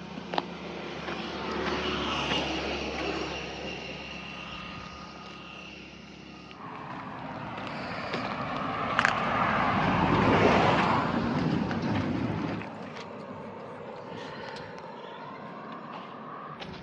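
A car driving on the road: steady road and engine noise that swells and fades twice, loudest around the middle.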